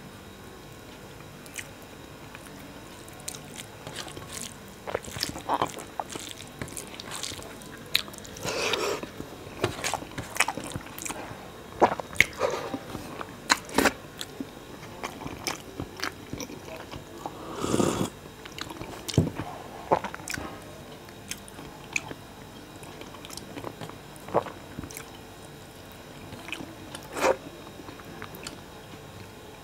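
A person chewing a mouthful of rice and curry with wet mouth clicks and lip smacks, coming thick and fast in the middle stretch and thinning out near the end.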